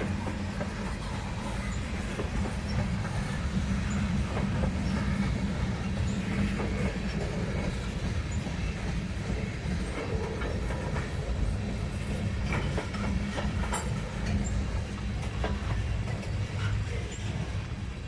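A train passing close by, its cars rolling along the track with a steady rumble and clickety-clack from the wheels.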